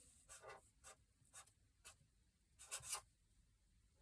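Faint, short scratching strokes, about half a dozen, the loudest pair just before the three-second mark, over a near-silent room.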